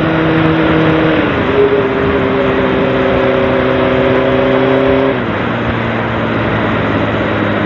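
Sportbike engine running under way, its note stepping down twice, about a second in and about five seconds in, as it shifts up through the gears, over a heavy rush of wind noise.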